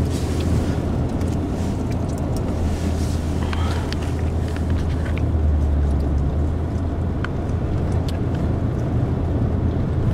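Car interior road noise while driving on a snowy road: a steady low rumble of engine and tyres, with a few faint ticks.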